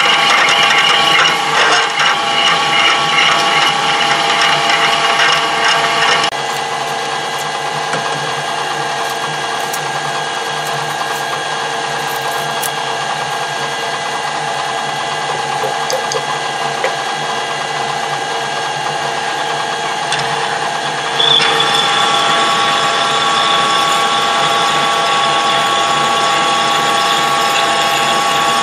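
Metal-working lathe running under power, its gear train whining steadily. The sound drops a step about six seconds in and steps back up again near 21 seconds.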